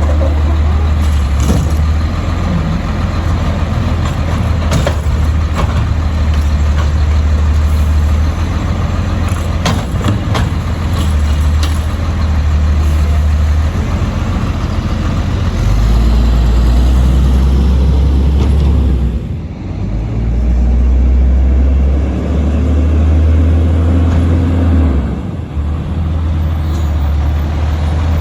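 Diesel engine of an Autocar side-load garbage truck running, its low note stepping up and down several times, with a few sharp knocks in the first half.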